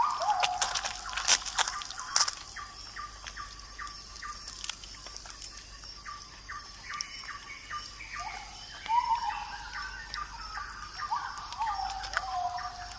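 Birds calling in the open: short falling whistled notes come and go, over a steady run of about two chirps a second.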